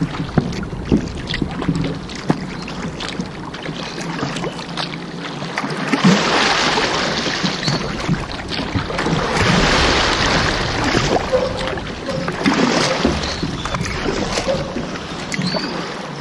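Water sloshing and splashing against a kayak on a river, swelling louder in waves, with small knocks and clicks on the boat.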